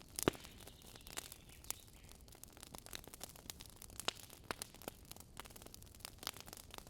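Wood campfire crackling, with irregular sharp pops and snaps, the loudest just after the start.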